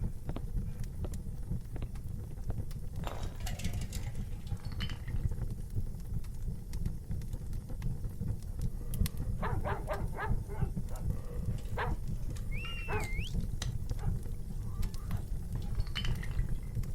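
Wood fire burning in an outdoor barbecue fireplace: a steady low rumble with scattered crackles and pops. A short whistle-like call that rises and falls comes about twelve and a half seconds in.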